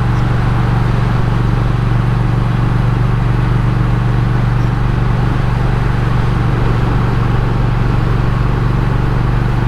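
Triumph Speed Twin parallel-twin engine running at a steady cruise, a constant low drone under wind and road rush on the bike-mounted camera.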